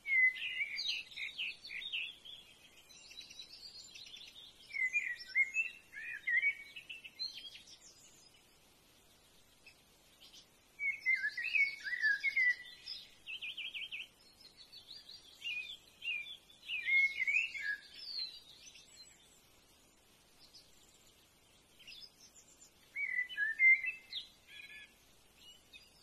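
Bird calls: about six bursts of quick, high, jumbled chirps and twitters, separated by short pauses.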